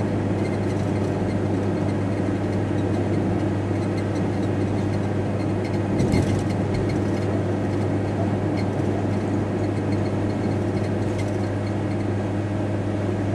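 VW T4 Transporter van running on the road, heard from inside the cab as a steady low engine and road drone, with one brief bump about six seconds in.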